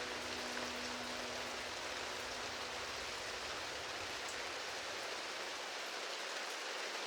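Rain falling steadily, an even hiss with no pattern in it. A held note of soft music fades out in the first couple of seconds.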